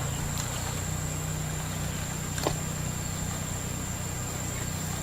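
A steady low engine hum, with a faint steady high whine over it and a single short click about two and a half seconds in.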